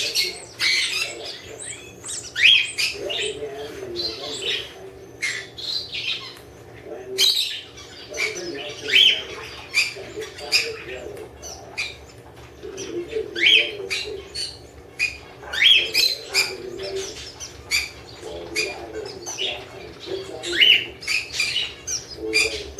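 Canaries chirping and calling: a busy run of short high chirps and quick sweeping calls, several a second, over a low steady murmur.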